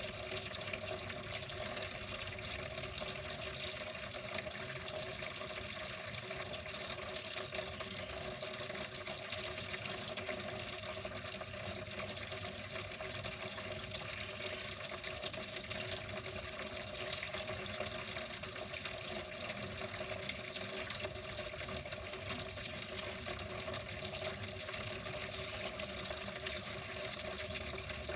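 Water running steadily, an even, unbroken flow with no change in strength.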